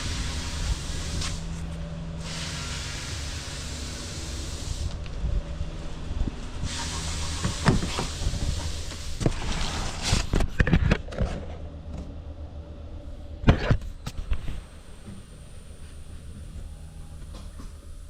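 Toyota Tacoma 3.5 L V6 engine idling steadily, with two long stretches of hiss, a cluster of sharp knocks midway and one loud knock a little later.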